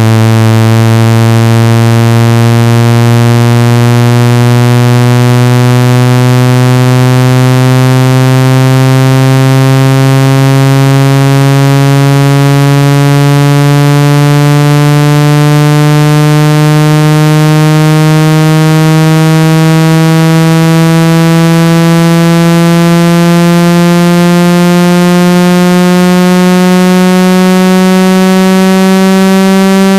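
Synthetic speaker water-ejection tone, played to vibrate water out of a phone or earphone speaker: a loud low electronic tone rising slowly and steadily in pitch, by nearly an octave.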